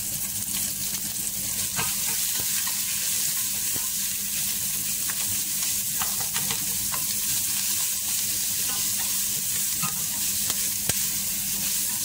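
Chopped onion and garlic paste sizzling steadily in hot oil in a stainless steel pot, stirred with a wooden spatula that knocks lightly against the pan a few times.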